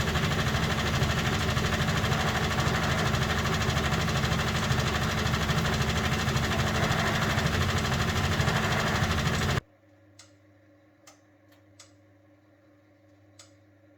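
1971 Constructa Garant 491 washing machine running loudly with a steady hum, stopping abruptly about two-thirds of the way through. A few faint, sharp ticks follow.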